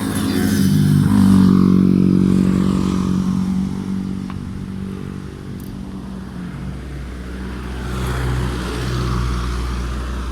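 A motor vehicle's engine running as it passes close by on the road, loudest about a second or two in and then fading. A lower engine rumble builds again near the end.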